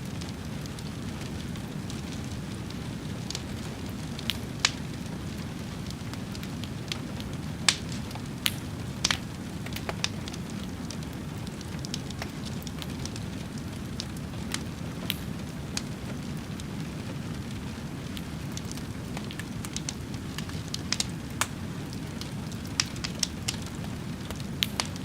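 A wood fire burning: a steady low rumble of flames with irregular sharp crackles and pops, which come more often near the end.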